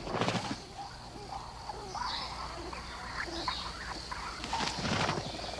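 Rainforest ambience: a steady high insect trill with a faint low hum beneath, and scattered soft taps and rustles, a little louder just after the start and again about five seconds in.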